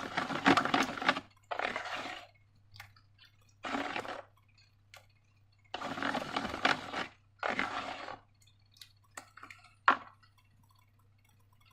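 Slime being squished and worked by hand: five bursts of wet, crackly squelching, each under a second long, with a sharp click near the end.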